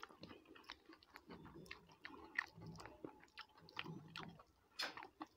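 Faint, close-miked chewing of a mouthful of rice and curry eaten by hand: irregular wet mouth smacks and soft clicks, with short pauses between them.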